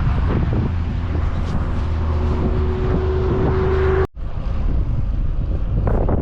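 Wind rushing over the microphone of a camera carried on a moving road bike, a steady rumble that drops out briefly about four seconds in.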